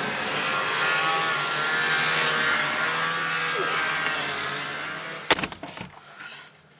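A car engine running among traffic noise, steady and then fading. About five seconds in come a few sharp clicks and knocks, as of a car door opening and shutting, followed by the quiet of a closed car cabin.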